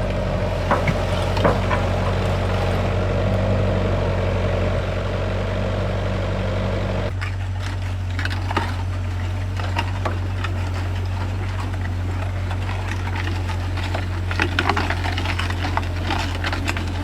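A motor running steadily with a constant low hum, its tone changing about seven seconds in, with scattered clicks and light knocks over it.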